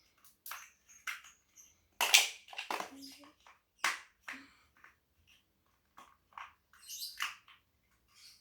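Plastic Lego bricks clicking and clattering as pieces are handled and fitted together: an irregular string of short, sharp clicks, loudest about two seconds in.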